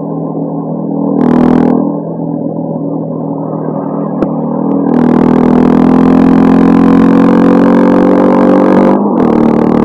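Honda CB350 scrambler's engine, through a modified stock exhaust, running under way. About five seconds in the throttle opens and it gets louder, the note rising steadily, then falls sharply near the end and pulls on again.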